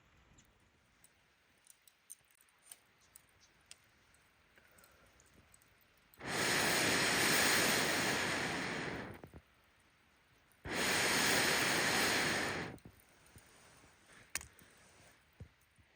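Air blown into a wood campfire in two long blows, the first about three seconds, the second about two, starting and stopping sharply. Light scattered crackles and ticks of burning wood come before and after them.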